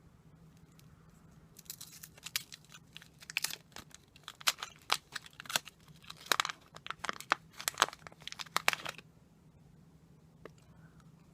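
Crisp crackling and tearing for about seven seconds, starting about two seconds in: food or its crinkly wrapping being torn and handled for eating.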